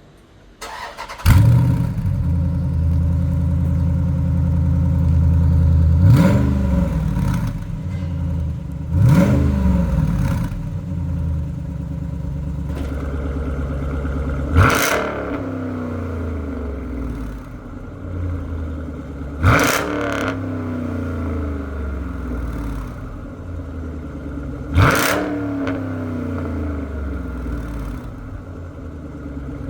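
Jeep Grand Cherokee SRT's 6.4-litre Hemi V8 through an aftermarket active exhaust: it starts about a second in with a loud flare, settles to idle, and is blipped five times, each rev rising sharply and falling back to idle.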